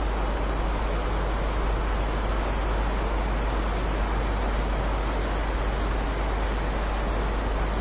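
Steady heavy rain: a dense, even hiss with no single drops standing out, over a constant low rumble.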